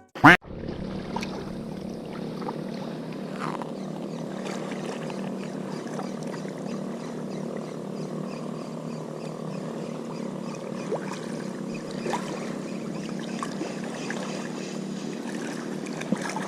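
A brief loud swish right at the start, then a steady low hum with faint outdoor noise and a few light clicks.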